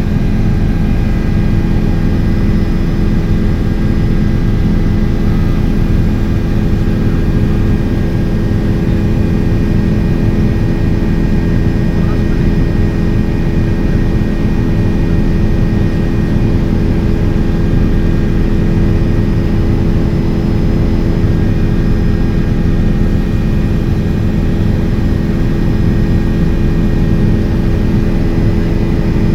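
Helicopter in flight: a steady, loud drone of engine and rotors with several steady tones running through it.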